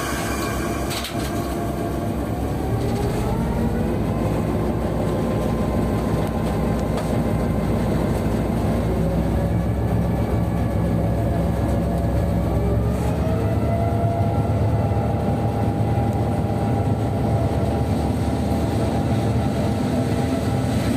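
Diesel locomotive engine heard from inside the cab, running loud and steady. Its pitch rises in two steps, about two seconds in and again about twelve seconds in, as it is throttled up to move the train.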